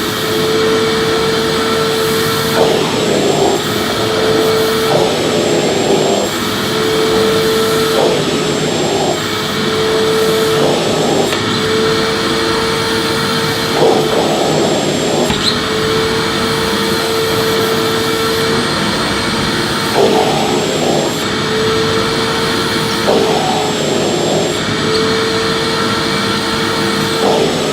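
Electric vacuum cleaner running steadily while being pushed back and forth over the floor; its whining motor note breaks briefly every two or three seconds with a short rush of suction noise at each stroke.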